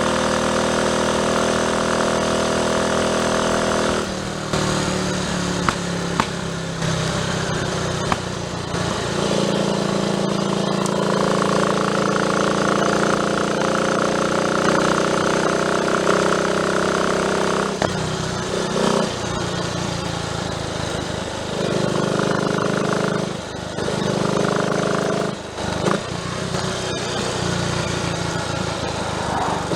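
Triumph Tiger Cub's single-cylinder four-stroke engine running, its pitch stepping up and down several times as the revs change.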